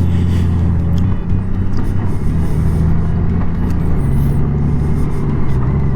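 Honda Gold Wing's 1833 cc flat-six engine running steadily at low speed, with tyre and road noise; the engine note dips briefly about a second in.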